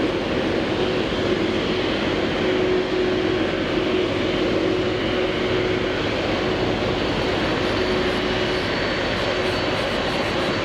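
Jet airliner engines running steadily: a loud, even noise with a steady hum and a faint high whine.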